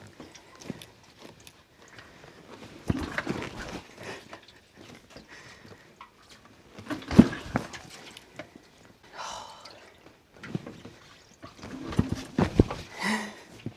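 The kickstarter of a 1973 Yamaha TX500 parallel twin being kicked over several times, a few seconds apart. Each kick gives a short knock and clatter, but the cold engine does not catch.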